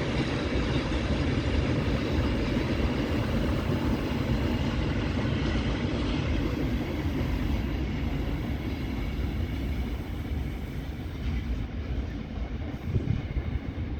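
Freight train rolling past close by, a steady rumble of wagons on the rails with a faint hum, easing a little near the end.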